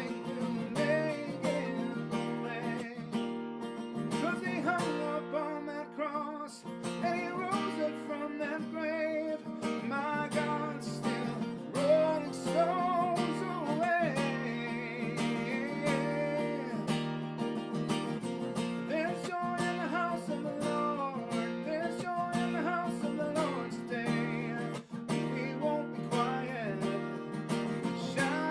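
Worship song played on strummed acoustic guitar, with a voice singing or humming a wavering melody at times.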